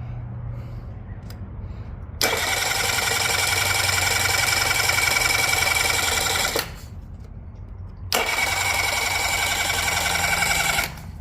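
Yamaha 8 hp High Thrust outboard engine, which has a carburettor problem, running. A low steady hum is under it throughout. Twice, a loud, higher-pitched steady sound cuts in abruptly for a few seconds and then drops away.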